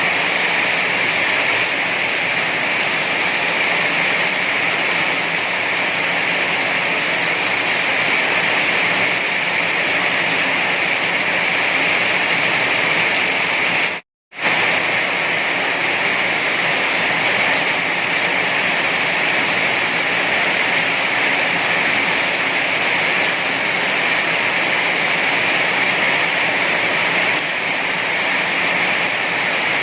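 Heavy rain falling in a steady, unbroken hiss. It cuts out to silence for a split second about halfway through, then resumes unchanged.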